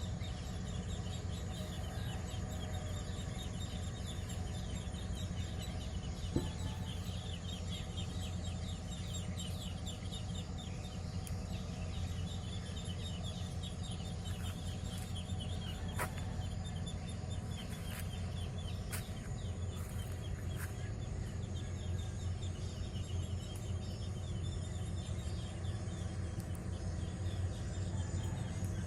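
Steady low drone of a tugboat's engine, with insects chirping in rapid pulses over it.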